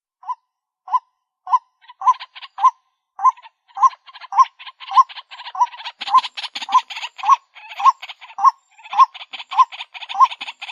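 White-breasted waterhen call: a repeated 'kwak' note about twice a second. From about two seconds in, a fast chattering fills the gaps between notes and grows denser about six seconds in.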